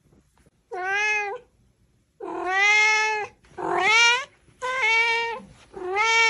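A domestic cat meowing repeatedly: five drawn-out meows in quick succession, the middle ones the longest and loudest.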